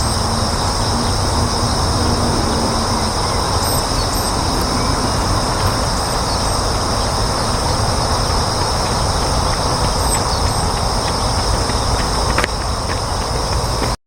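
Steady outdoor background rumble with a continuous high-pitched drone above it and a few faint short high chirps; it cuts off suddenly at the end.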